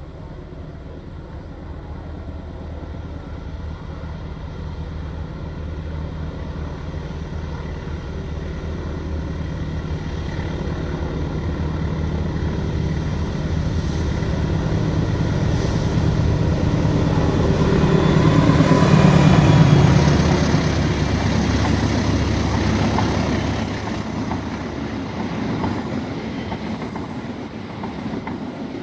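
Diesel-hauled passenger train approaching and passing: the locomotive's engine hum builds to its loudest a little past the middle, then the coaches rumble and clack by on the rails as it fades.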